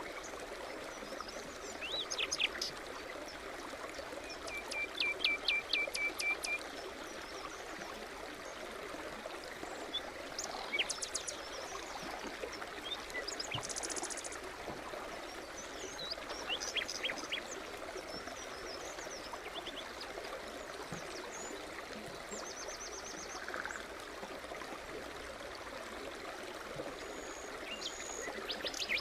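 Small forest stream babbling steadily, with songbirds chirping and singing over it. About five seconds in a bird gives a quick run of evenly repeated short notes, and a high buzzy call comes in midway.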